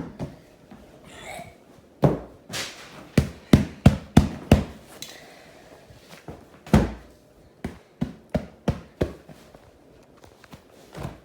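Irregular series of sharp knocks and thuds of hard objects hitting a hard surface, with a quick run of them in the middle and one heavier thud a little later.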